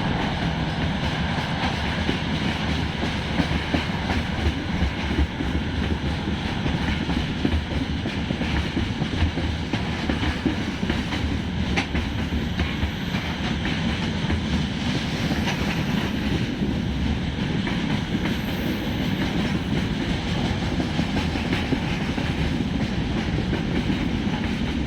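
A train passing close by with a continuous rumble, its wheels clacking over the rail joints.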